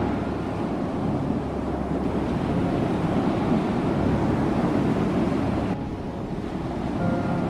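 Ocean surf washing on a shore, a dense, steady rush of water. The upper hiss thins abruptly about six seconds in.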